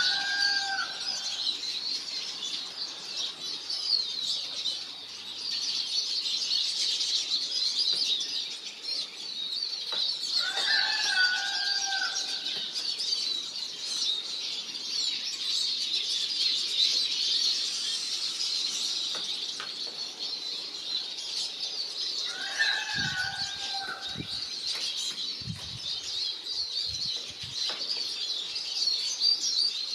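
Siskins twittering and chattering continuously in a dense, high-pitched stream. A lower, hooked call sounds three times about eleven seconds apart, and a few dull low knocks come near the end.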